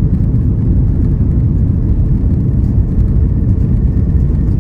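Steady, loud low rumble inside the cabin of an Airbus A340-600, from its four Rolls-Royce Trent 500 engines and the airframe as the airliner moves around the time of takeoff.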